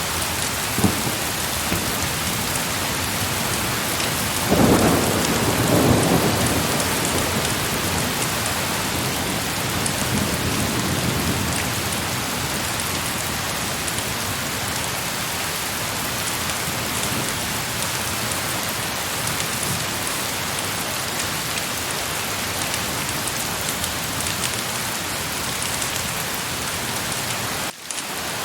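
Heavy rain falling steadily, with a clap of thunder about four and a half seconds in that rumbles away over the next two seconds, and a fainter rumble around ten seconds. The sound drops out for an instant near the end.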